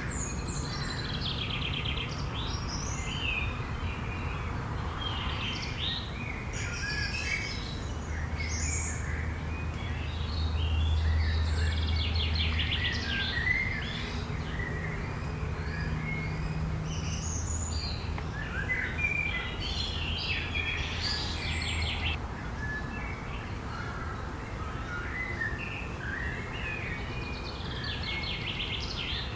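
Forest birdsong: several small birds singing at once, with many overlapping chirps and quick trills. A steady low rumble runs underneath and grows stronger for a stretch in the middle.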